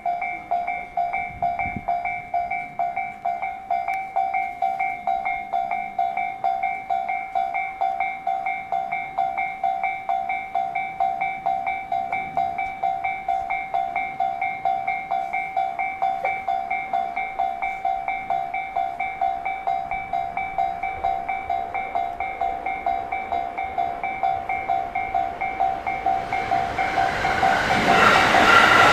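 Railway level-crossing warning bell ringing in a steady two-tone clang about twice a second. Near the end a train arrives and its running noise rises quickly over the bell.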